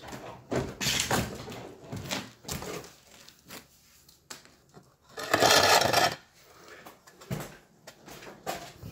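Scattered knocks, clicks and clatter of wood and hardware being handled while a cabinet is installed, with one louder noisy burst of about a second roughly five seconds in.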